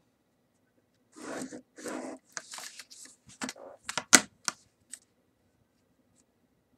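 Paper rustling and sliding in a few soft swishes, then a run of sharp clicks and taps from a pen and ruler on the paper as a line is drawn, the loudest click just after four seconds in.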